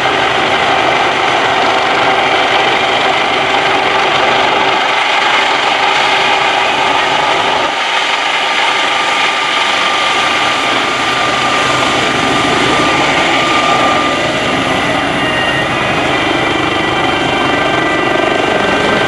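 US Coast Guard MH-65 Dolphin helicopter hovering: steady rotor and turbine noise with several high, steady whining tones, more of them in the second half.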